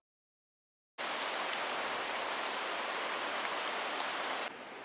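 Heavy rain pouring steadily after about a second of dead silence. Near the end it drops suddenly to a quieter, softer rain.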